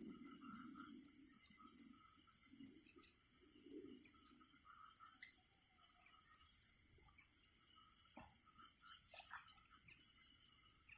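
Crickets chirping: a high-pitched chirp repeating evenly about three to four times a second, over a steady, even higher insect trill.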